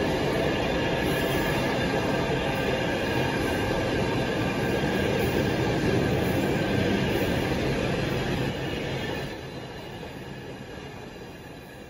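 Freight train's container wagons rolling past at speed: wheels running on the rails with a thin, steady high squeal over the rumble. The sound drops off sharply about nine seconds in as the last wagons go by, then fades away.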